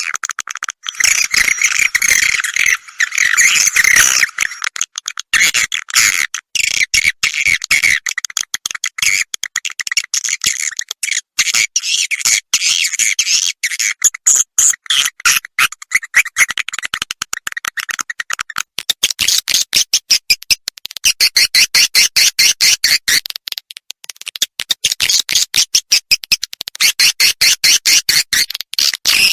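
Swiftlet lure call of the roosting ('inap') type, as played in swiftlet houses: dense, rapid high twittering chirps. From about two-thirds of the way in it turns into fast, even trains of clicks with short breaks between them.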